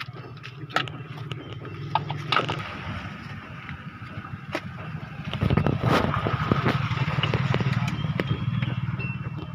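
Diesel tractor engine running steadily, growing louder about five seconds in, with scattered clicks and knocks over it.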